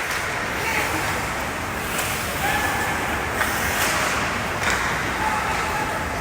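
Hockey game ambience: a steady wash of rink noise with faint distant shouts and a couple of light knocks of sticks or puck.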